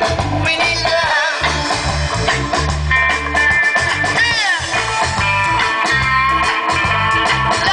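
Live reggae band playing, with a heavy, pulsing bass line and sliding lead phrases above it.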